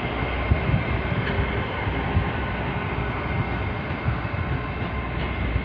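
Great Western Railway Intercity Express Train (a Class 800-series bi-mode unit) pulling out and passing on its underfloor diesel engines: a steady rumble of engines and wheels with a few soft thumps and a thin steady high tone.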